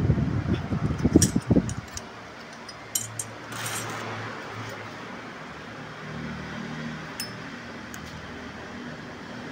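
Workshop handling noise: about two seconds of low knocks and rumbling, a few light metallic clinks, then a steady low hum.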